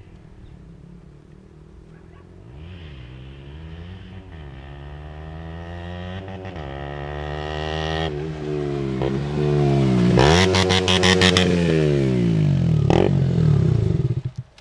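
KTM 125 Duke's single-cylinder engine through its original exhaust, modified to sound non-stock, building revs with brief dips in pitch and growing steadily louder. A burst of crackling comes at the top, then the revs fall away and the sound cuts off suddenly near the end.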